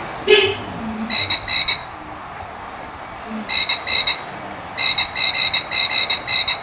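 Frog croaking: short, evenly spaced croaks in runs of two or three, then a longer run of about three croaks a second. A brief, louder sound comes just before the first croaks.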